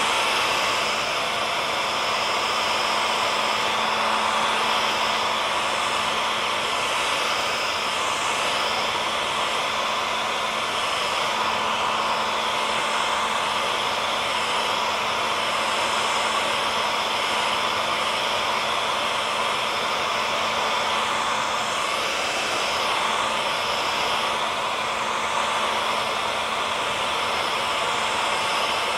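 Hair dryer running steadily: a constant blowing rush with a fixed motor whine.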